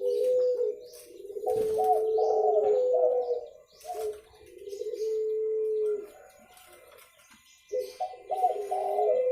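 Spotted dove cooing: about four phrases of repeated coos, each a second or two long, with short pauses and a longer quiet gap before the last phrase.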